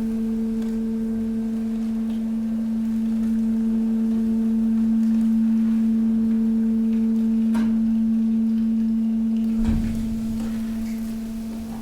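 Hydraulic pump of a stationary waste compactor running while it presses mixed waste: a steady hum. A sharp click comes about two-thirds of the way through, and a low thud about ten seconds in.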